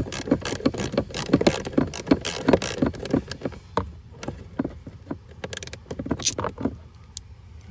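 Hand driver turning out a screw on a truck's blower motor resistor: a quick run of clicks, about four a second, thinning after about three seconds into a few scattered clicks.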